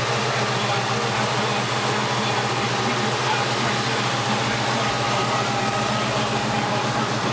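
Crate 350 small-block Chevrolet V8 idling steadily.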